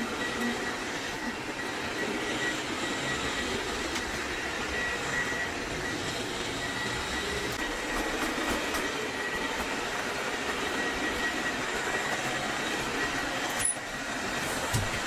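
Xiaomi Roidmi EVE Plus robot vacuum running: a steady suction whir with a thin, constant high whine, dipping briefly near the end.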